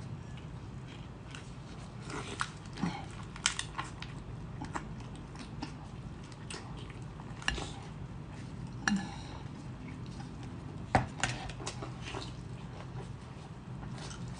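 Close-up eating sounds: a person chewing and smacking on spicy seafood, with scattered sharp clicks and knocks of shell, utensil or dish. The loudest knock comes about eleven seconds in, over a low steady hum.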